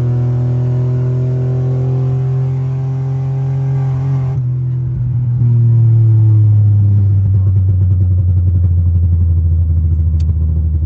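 1995 Chevy pickup's 4.3 V6 pulling hard on a 150-shot of nitrous, its engine note climbing steadily for about four seconds. It then breaks off abruptly, and the engine comes back lower, dropping in pitch and settling into a low, pulsing rumble.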